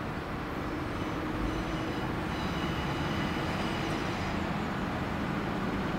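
DB Regio diesel railcar approaching at a distance: a steady engine and rail rumble that grows slightly louder, with a faint high whine about two to four seconds in.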